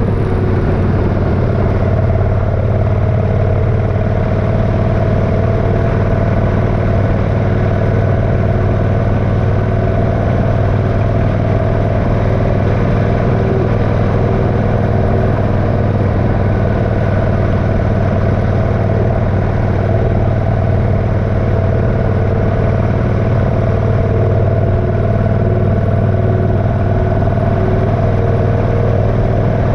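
Motorcycle engine running steadily at an even speed while riding, with no change in pitch.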